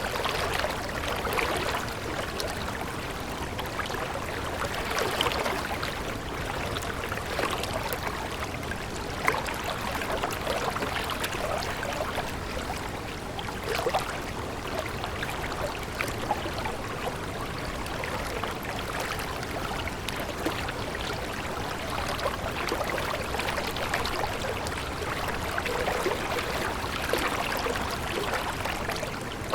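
Water flowing and babbling steadily over stones, with many small irregular splashes and gurgles.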